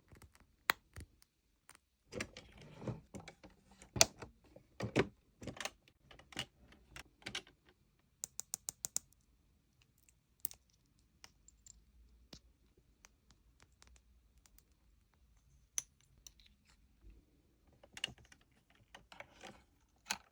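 Small hard-plastic miniature toy items and their packaging being handled: scattered light clicks, taps and short rustles, with a quick run of about six clicks a little before the middle.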